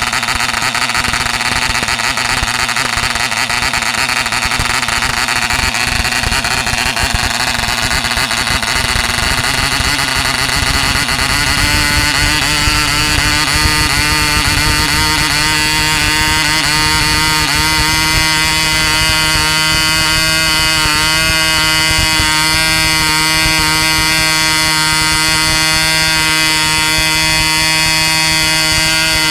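Katipo 1.49cc Mk1 model diesel engine running flat out, spinning a 7x6 wooden propeller with a loud, high buzz. About ten seconds in its note rises a little, wavers briefly, and then settles into a steady pitch.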